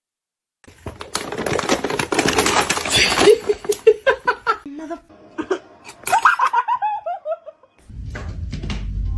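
A person laughing in short pulses that fall in pitch, after a stretch of rustling and clattering. A low steady rumble comes in near the end.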